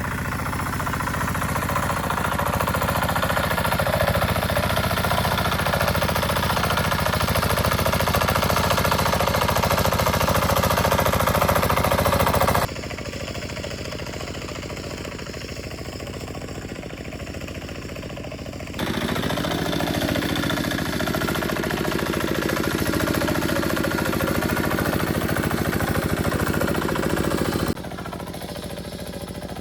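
An engine running steadily, without speech. It drops abruptly to a quieter level about 13 seconds in, comes back up about 19 seconds in, and drops again near the end.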